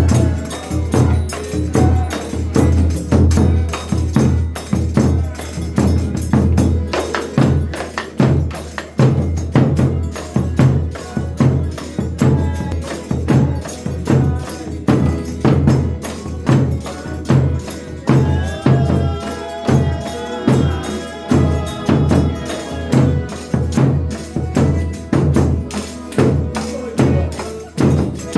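Folia de Reis folk music: a deep drum beats a steady pulse about once a second under jingling tambourine (pandeiro). Held melody notes sound for a few seconds past the middle.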